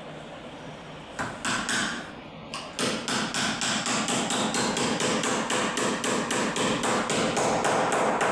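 Hammer striking repeatedly: a few separate blows, then from about three seconds in a fast, even run of about four blows a second.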